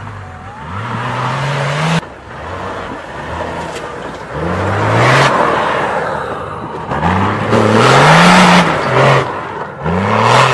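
SUV engine revving under load, its pitch climbing again and again as it pulls, with a rushing noise over it. The sound breaks off abruptly about two seconds in and picks up again.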